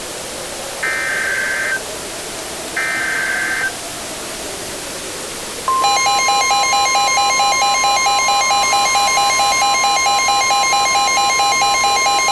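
Emergency Alert System alert tones: two harsh one-second bursts of the digital SAME header, the last two of three. About six seconds in, a steady weather-radio warning tone starts, with a fast pulsing electronic beeping laid over it, signalling that an emergency alert follows.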